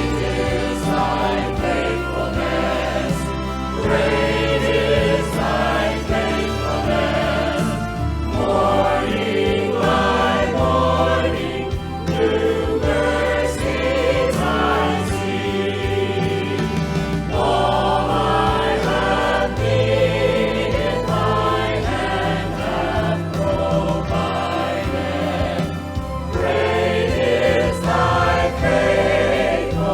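Church music: a group of voices singing a worship song in phrases over instrumental accompaniment with a sustained low bass.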